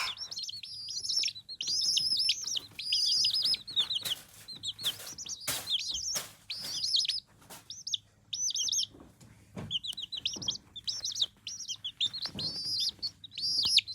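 Baby chicks peeping: many short, high-pitched, down-arching chirps in quick runs, thinning out about halfway through before picking up again. A few light knocks fall among them a third of the way in.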